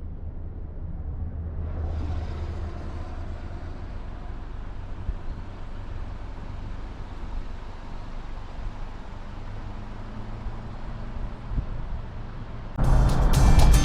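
A car driving, a steady low rumble of engine and road noise; music comes in near the end.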